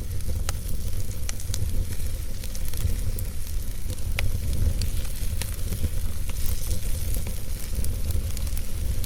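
Wood logs burning in a fireplace: irregular sharp crackles and pops over a steady low rumble and hiss of the flames.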